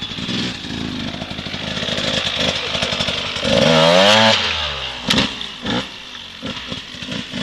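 Dirt bike engine running and revved: its pitch climbs and wavers for about a second midway, the loudest part, followed by a sharp knock about a second later.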